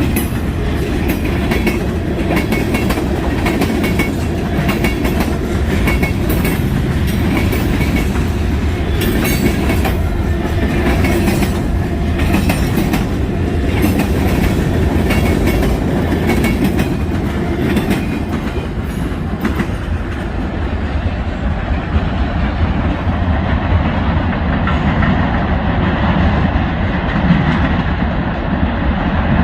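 Freight train cars rolling past: a steady rumble with the wheels clicking over the rail joints. About twenty seconds in the clicking and the higher sounds fade, leaving the rumble.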